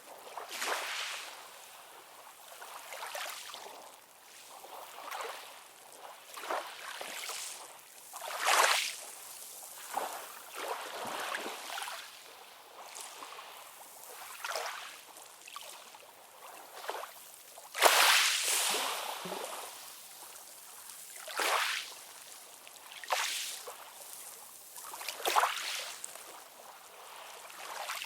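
Small waves lapping and splashing at the water's edge in irregular bursts every second or two, with no deep surf rumble; the loudest splash comes about two-thirds of the way through.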